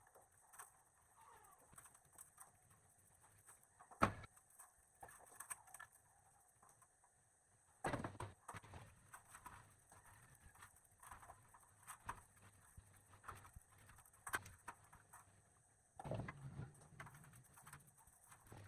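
Faint scattered clicks and taps, with one sharp knock about four seconds in and short bursts of clatter about eight and sixteen seconds in.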